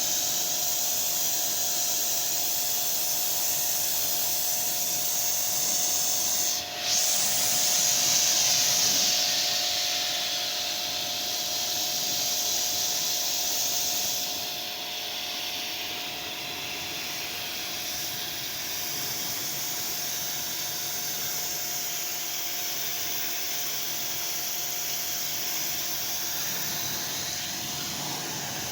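High-pressure water spray hissing steadily against a car, over the steady hum of the washer's motor. The spray cuts out for a moment about seven seconds in, then resumes, and it is somewhat quieter for the second half.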